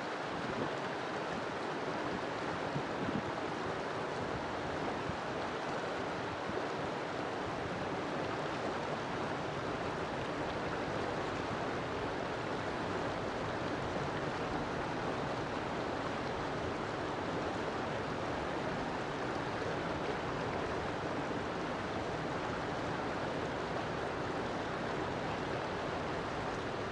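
River water flowing steadily over rocks, an even rushing babble that doesn't change.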